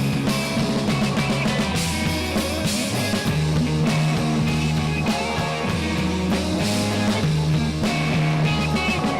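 Instrumental rock band playing live: electric guitars and bass holding sustained chords over drums, loud and steady.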